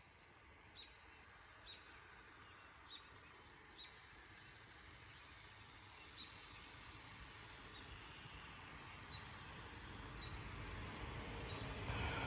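Faint outdoor riverside ambience: a steady rushing noise that grows louder toward the end, with short, faint high ticks about once a second for the first several seconds.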